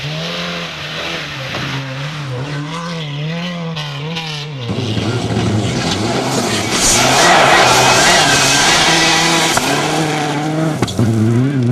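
Racing car engine revving up and down repeatedly, then a louder rush of engine and tyre noise from about five seconds in as a car passes close, before the engine note rises and falls again near the end.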